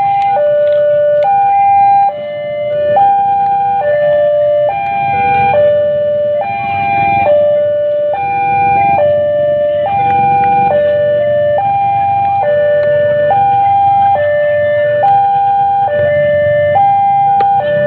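Railway level crossing warning alarm sounding continuously: an electronic tone pattern stepping up and down between a few pitches, over the low rumble of a passing train.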